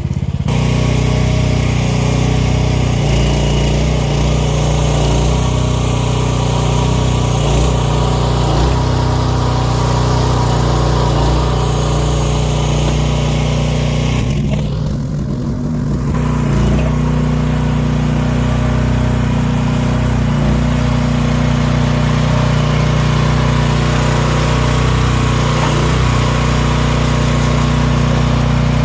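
The 15-horsepower gasoline engine of an AGT H12R mini excavator running steadily while the machine works its dozer blade. The engine note dips briefly about halfway through, then steadies again.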